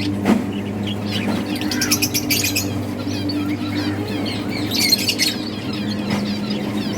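Several budgerigars chirping and chattering in quick, overlapping bursts, with a steady low hum underneath.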